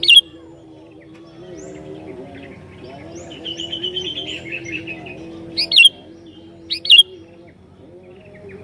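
Sooty-headed bulbul (kutilang) calling: a loud, sharp chirp at the start and two more near the end, with a rattling chatter in the middle. A low, wavering tone runs underneath throughout.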